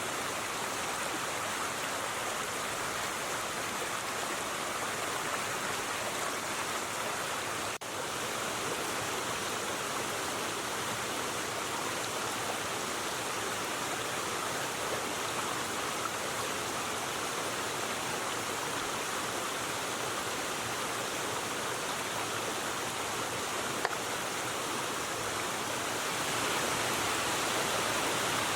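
River water running steadily, an even rushing sound. It dips briefly about a third of the way through and grows a little louder near the end.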